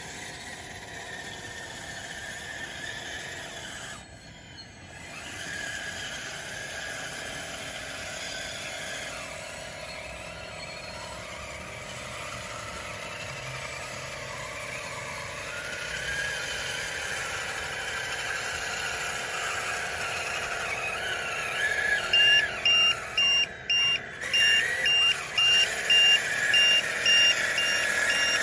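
Radio-controlled model bulldozer's electric motors whining, the pitch rising and falling as it works. About three-quarters of the way in, a reversing beep starts and repeats steadily.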